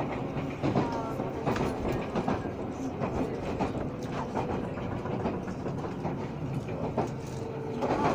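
Train running, heard from inside the passenger car: a steady rolling rumble with frequent irregular clicks of the wheels over rail joints.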